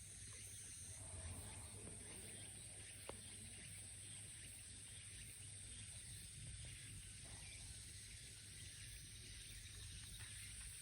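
Faint outdoor ambience under a steady, high-pitched insect drone, with one small click about three seconds in.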